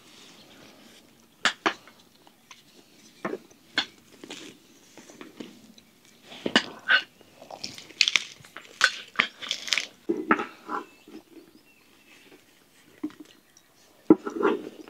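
Dishes and utensils being handled: irregular sharp clinks and taps, busiest in the middle.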